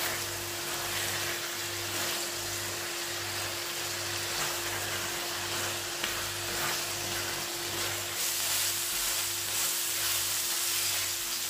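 Chicken liver masala sizzling steadily as it is stir-fried on high heat in a nonstick wok, with a spatula scraping through it now and then. A low hum pulses at an even rhythm underneath.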